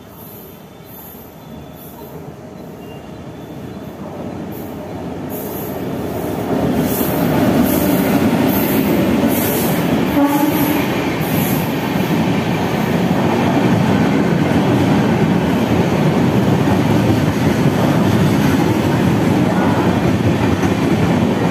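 An express train hauled by a WAP-7 electric locomotive approaches and runs past close by at speed. Its noise grows over the first six or seven seconds into a loud, steady rumble and rattle of passenger coaches rolling by, with a brief knock about ten seconds in.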